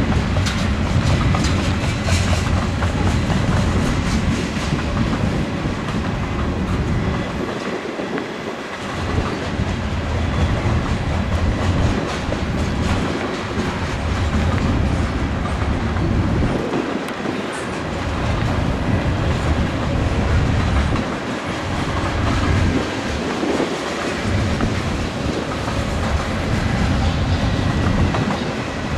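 Freight cars of a Canadian National manifest train rolling past, a steady heavy rumble of wheels on rail with clickety-clack over the joints, dipping briefly every few seconds.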